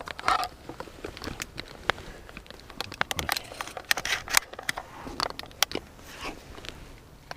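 Close rustling and crinkling with many irregular sharp crackles and clicks, like fabric or dry vegetation being handled or shifted.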